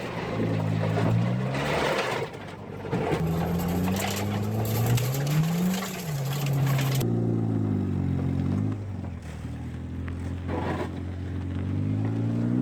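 Turbocharged Honda CRX engine running, its pitch rising and falling several times as it revs up and drops back. A broad hiss stops abruptly about seven seconds in.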